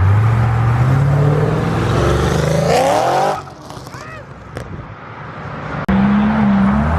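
A car engine accelerating hard, its pitch climbing steadily for about three seconds before the sound drops away suddenly. About a second before the end, a loud engine comes in abruptly at a new pitch.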